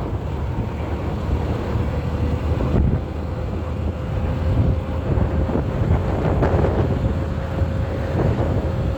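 Wind buffeting the microphone on a moving motorbike, a loud steady low rumble, with a faint steady hum from the bike running underneath.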